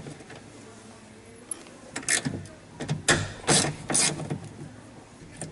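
A few short, sharp metallic clicks and rattles of hand-tool work on a car door, starting about two seconds in.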